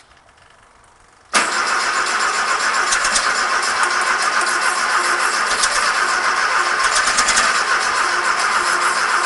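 Newly built 1776 cc air-cooled VW flat-four engine with headers, cutting in abruptly about a second in and then running steadily and loudly.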